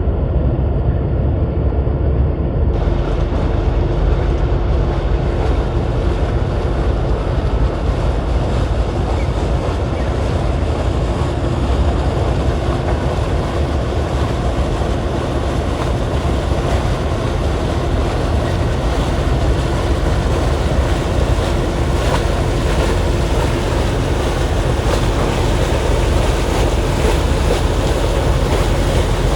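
Wind buffeting the microphone over washing surf, with a steady low hum underneath. The upper range opens up a few seconds in.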